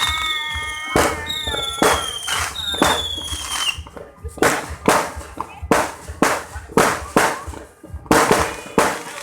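Fireworks going off: a quick series of sharp bangs, about two a second, with several high whistles falling in pitch over the first few seconds.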